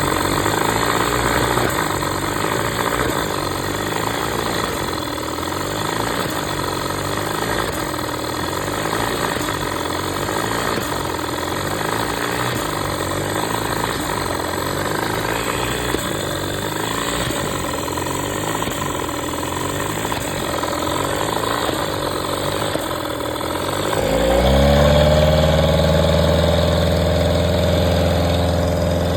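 1990 Mercury 9.9 two-stroke outboard motor running unevenly at low speed, a sign of its carburettor problems. About 24 seconds in it speeds up and settles into a louder, steadier run.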